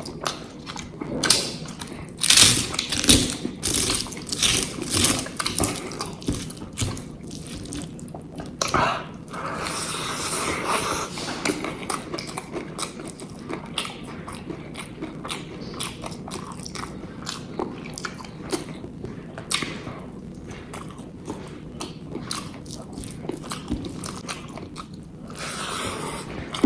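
A person eating close to the microphone: biting and chewing with wet mouth sounds, with a run of loud, sharp crunchy bites a couple of seconds in.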